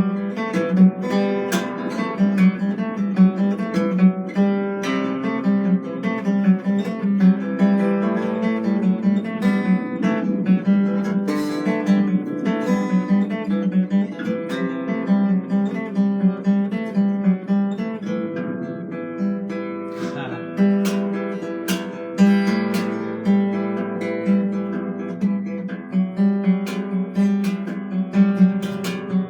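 Acoustic guitar being played, a continuous run of plucked and strummed notes.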